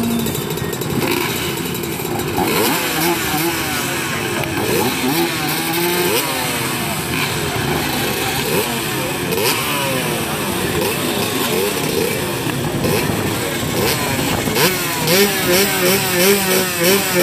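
Dirt bike engines revving and accelerating, their pitch rising and falling over and over, with more than one engine heard at once. Near the end, one engine's throttle is blipped in quick pulses, about three a second.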